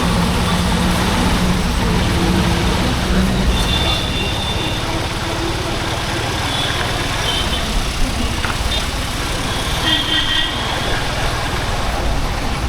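Honda H'Ness CB350's air-cooled single-cylinder engine and exhaust running under way, with wind and road rush. A steady engine note holds for the first few seconds, then falls away as the bike eases off. Short high beeps sound in the traffic about four and ten seconds in.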